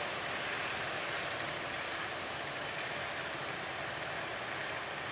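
Steady, even rushing noise of a train rolling away out of sight.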